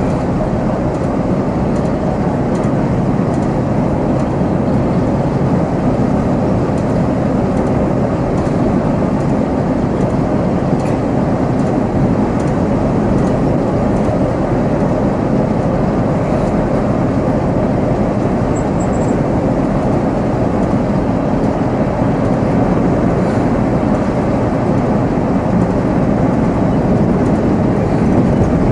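Volvo B7R coach's diesel engine running with road noise as it drives, a steady sound heard from the driver's seat.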